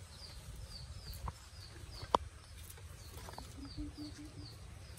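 Quiet outdoor background: a small bird chirps over and over while a low rumble runs underneath. A single sharp knock sounds about two seconds in, and a short row of about five low clucking notes comes near four seconds.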